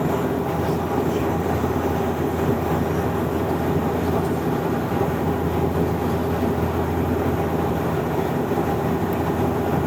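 Steady in-flight cabin noise of an airliner: an even drone of engines and airflow with a constant low hum, unchanging throughout.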